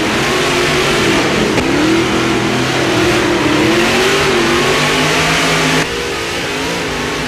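Nissan 370Z Nismo's 3.7-litre V6 revving hard, its pitch rising and falling. The sound cuts abruptly to a slightly quieter, steadier run about six seconds in.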